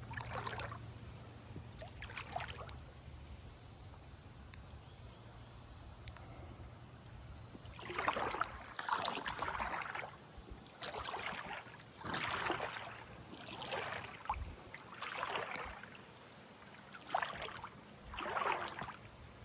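A paddle dipping and pulling through water. Two faint strokes come early, then a steady run of swishing strokes starts about eight seconds in, roughly one every second and a half.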